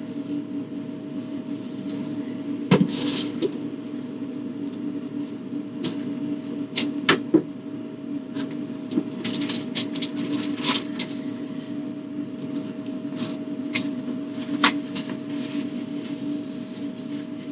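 Scattered knocks, clicks and clatters of items being handled and moved while a refrigerator is emptied and reorganized, over a steady low hum.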